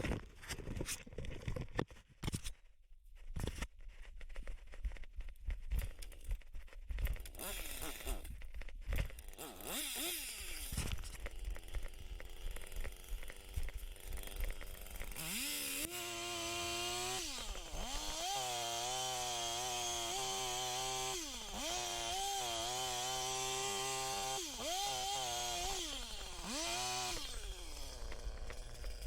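Scattered knocks and rustling, then about halfway through a chainsaw running and revving up and down in repeated bursts, its pitch sagging and recovering as it works.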